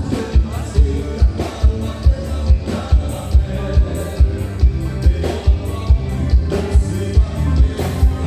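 A live band playing gaúcha dance music, with sustained melody notes over a steady bass-drum beat of a little over two beats a second.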